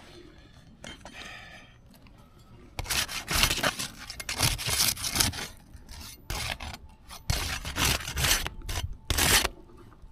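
Rough scraping and rasping strokes of roof shingles being worked loose to lift and remove them. They start about three seconds in and come in repeated bursts.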